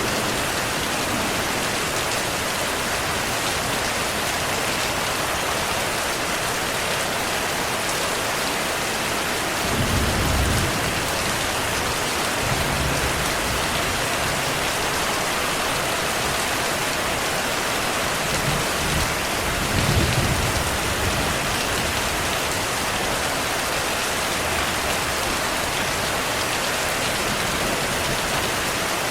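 Heavy rain falling steadily, with distant thunder rumbling low and briefly twice, about a third of the way in and again around two thirds of the way in.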